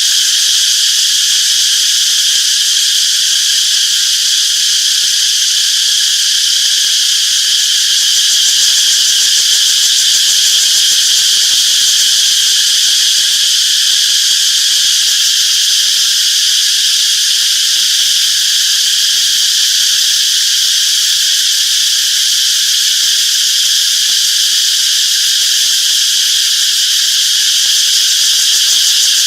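A dense chorus of cicadas buzzing steadily and loudly, an unbroken high shrill drone.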